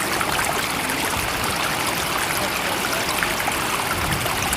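Steady running water: an even, continuous rush with no breaks or swells.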